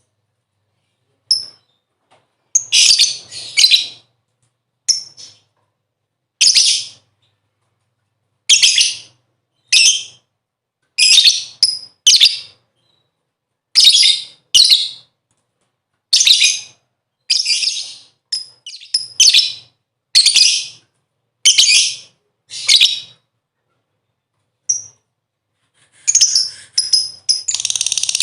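Lovebird calling in short, sharp, high chirps, one every second or so with silences between. Near the end the calls come faster and run together into continuous chatter.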